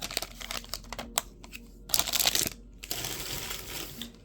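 Baseball card pack wrapper crinkling and cards being handled, with scattered light clicks and a louder rustle about two seconds in.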